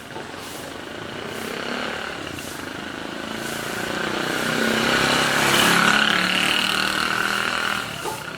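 A motor vehicle passing by, growing louder to a peak about two-thirds of the way through and then easing off.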